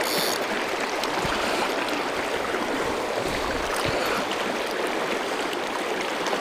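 River water rushing steadily, an even unbroken hiss, with a couple of soft low bumps partway through.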